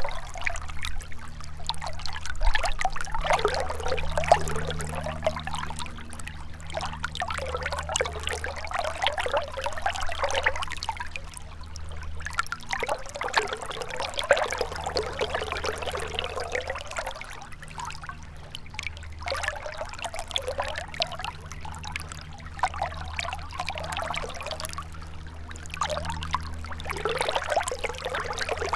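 Gentle river water trickling and babbling steadily, swelling and easing every few seconds.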